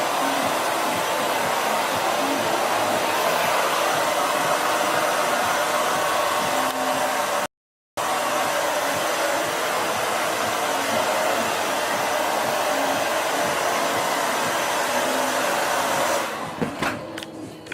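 Handheld blow dryer running steadily, blowing hair dry for styling; the sound drops out completely for a moment about halfway through. The dryer stops near the end, followed by a few small clicks.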